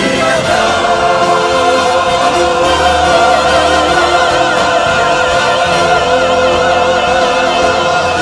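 Church choir singing with accompaniment, holding a long chord with vibrato that starts to fade near the end.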